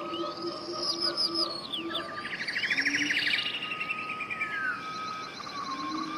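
Several birds singing at once: quick arcing chirps, then a fast trill in the middle, a falling whistle near the end, with a held note and some low notes underneath.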